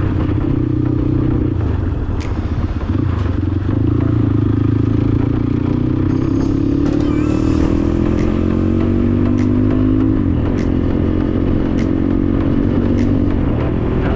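Motorcycle engine running under way on rough ground. Its pitch climbs steadily for several seconds, then drops about ten seconds in, with sharp clicks and clatter throughout.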